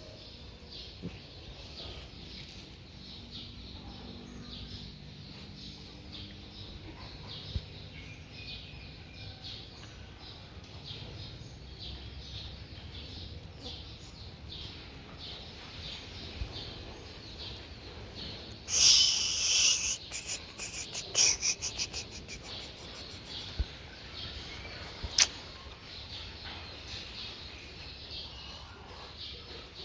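Outdoor background with many small high chirps repeating steadily over a low hum. About two-thirds of the way through, a loud hissing burst lasts about a second, followed by a quick run of sharp clicks.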